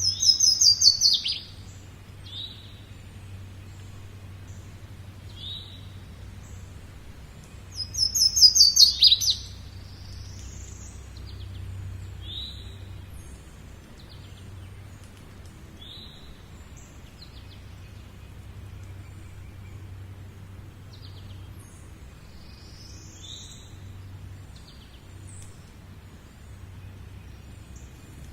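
Songbird singing: two loud phrases about eight seconds apart, each a quick run of high notes ending in a falling sweep, with short single chirps scattered between them. A steady low hum sits underneath.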